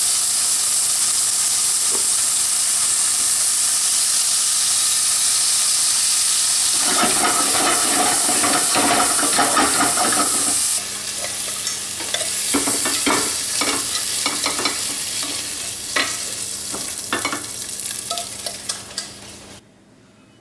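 Scallops sizzling as they fry in a pot on a gas hob, with a louder spluttering stretch past the middle. The sizzle drops about halfway through and gives way to clicks and scrapes as the pot is handled, then dies away near the end.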